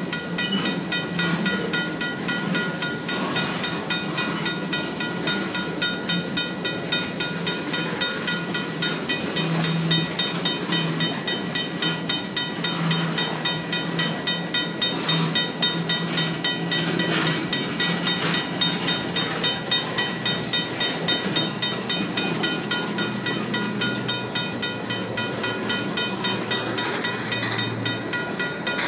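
Freight train of tank cars rolling past at close range with a steady rumble of wheels on rail. Over it a RACO mechanical railroad crossing bell rings continuously and rapidly, about four to five strokes a second.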